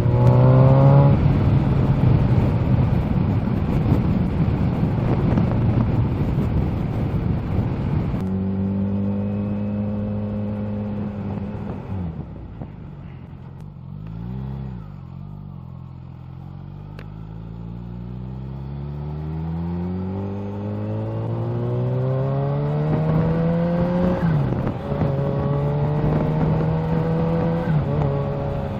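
Kawasaki Z H2 supercharged inline-four motorcycle on the road: for the first several seconds mostly wind rushing over the rider, then the engine note falls as the bike slows, runs low, and climbs steadily under acceleration, with a brief dip from a gear change about 24 seconds in before it holds steady.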